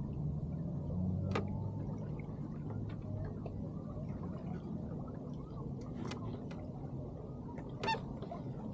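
Water gurgling and lapping against a small sailboat's hull as it sails in light wind. A low hum fades over the first couple of seconds, and a few sharp clicks sound, the last one near the end.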